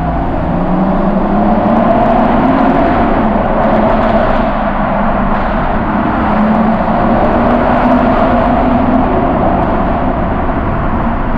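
Tuned BMW M135i's six-cylinder engine pulling hard under acceleration, heard from inside the cabin. Its note climbs, drops at a shift about three seconds in, then climbs again through the next gear.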